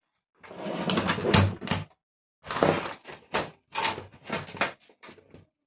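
Casing and parts of an electric room heater being handled and fitted together during reassembly: a run of scraping, clattering and knocks in several irregular bursts.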